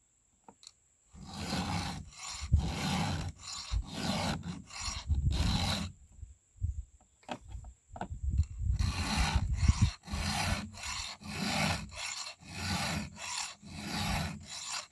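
A hand file rasping across the cutters of a chainsaw chain in repeated strokes, sharpening teeth that are dulled and dubbed over. A run of strokes starts about a second in and pauses briefly in the middle, then resumes at roughly two strokes a second.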